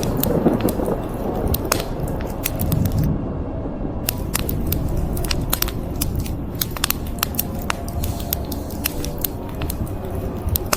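Burning wood fire crackling, with frequent sharp pops and snaps, over a steady low rush of rain.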